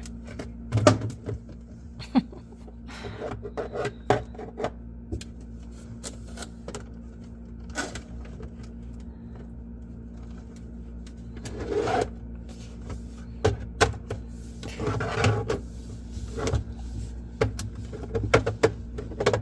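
Plastic containers and empty bottles clicking, knocking and scraping as they are handled and refitted on a fridge shelf, with louder stretches of shuffling about twelve and fifteen seconds in, over a steady low hum.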